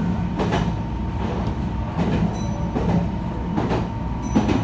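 Interior of a Meitetsu 3100 series electric commuter train running: a steady low rumble of wheels on track with a thin steady hum. Several clacks as the wheels pass over rail joints, and two brief high-pitched squeaks.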